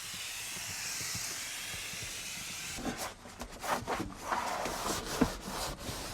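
Aerosol glass cleaner spraying in one long, steady hiss that cuts off about three seconds in. After it come irregular rubbing and scuffing with a few sharp knocks, as of the cleaner being wiped off surfaces.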